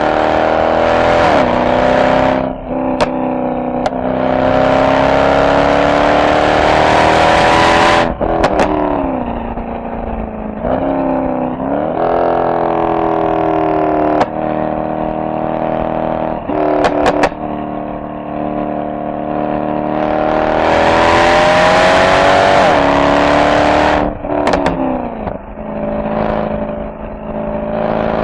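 Mercedes-AMG SL63 V8 exhaust under hard acceleration through the gears, its pitch climbing on each pull and dropping at every shift or lift. Short sharp cracks come from the exhaust on the lifts and shifts, and the two longest, loudest pulls come about four seconds in and again about twenty seconds in.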